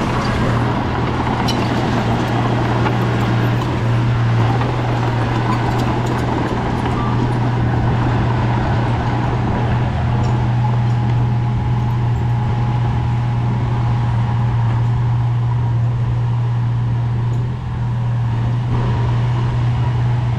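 Heavy diesel earthmoving engine running steadily under load, a strong even low drone.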